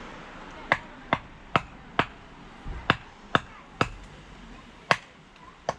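A series of about nine sharp knocks, mostly about half a second apart, with a longer gap a little past the middle and another before the last one.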